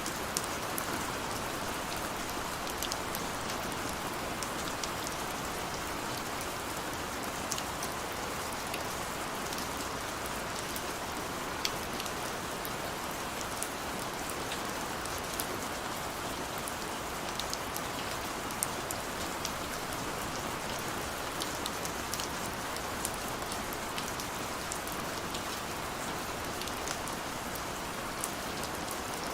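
Steady rain with many scattered small drop ticks against a window.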